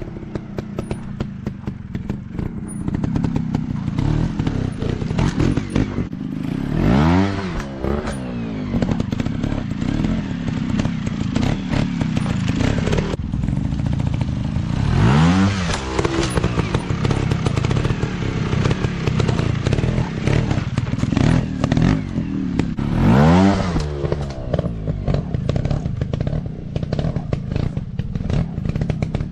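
Dirt bike engine running under throttle, revving up and back down three times about eight seconds apart, with frequent knocks and clatter from the bike working over rough ground.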